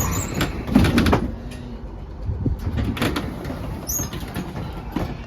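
Z3-class tram noise: a loud clatter in the first second, then a steady low rumble with a few sharp knocks, like the tram's sliding doors and running gear at a stop.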